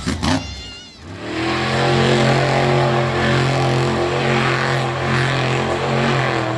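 Monster truck engine held at a steady rev for about five seconds, building up about a second in and dropping off near the end.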